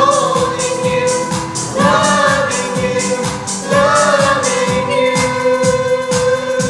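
Song with singing, long held notes that swell up at the start of each phrase, over music with a steady beat of about two drum hits a second.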